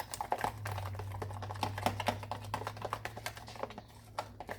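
Oil crackling and popping in a hot frying pan, a quick irregular patter of small pops, over a low steady hum.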